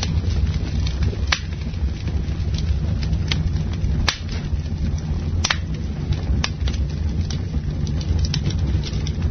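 Campfire burning: a steady low rumble of flames, with scattered sharp crackles and pops from the burning wood, a few of them louder.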